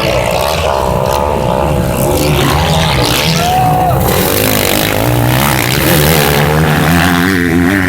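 Several motocross bike engines racing at once, their revs rising and falling quickly as the riders work the throttle.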